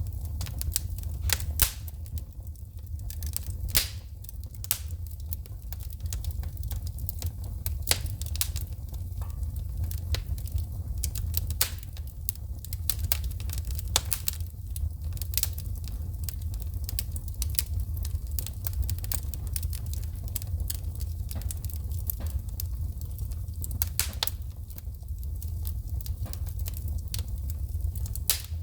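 Wood fire in a fireplace crackling, with frequent irregular sharp pops and snaps as sparks shoot from the burning logs, over a steady low rumble of the flames.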